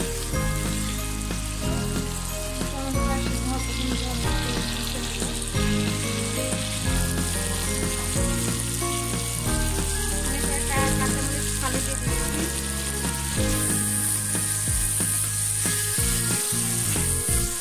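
Onion-and-tomato spice masala sizzling and bubbling in hot oil in a wok as it is fried down (bhuna), stirred now and then with a spatula. Background music with a steady bass line plays underneath.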